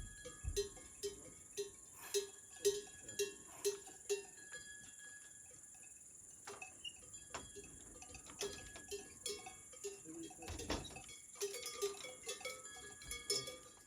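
A cowbell clanking, first in an even rhythm of about two strokes a second for a few seconds, then in irregular strokes.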